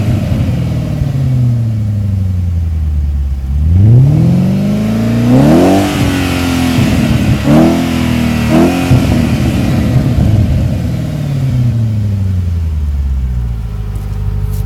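Audi C5 RS6's twin-turbo V8 running through a non-resonated Milltek cat-back exhaust with 3-inch downpipes and no catalytic converters, being revved. The revs sweep up sharply about four seconds in, blip up three more times, then fall slowly back to a steady idle near the end.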